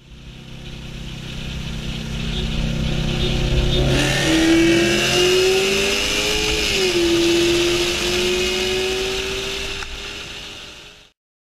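Modified performance car engine accelerating hard. The engine note climbs, drops sharply at a gear shift about two-thirds of the way through, climbs again, then cuts off suddenly near the end.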